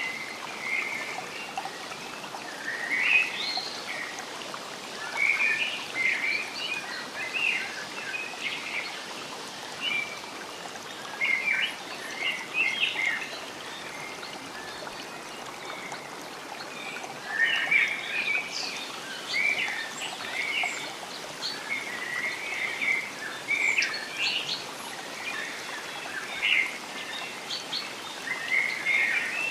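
Songbirds chirping and twittering in short, quick clusters over a steady background hiss.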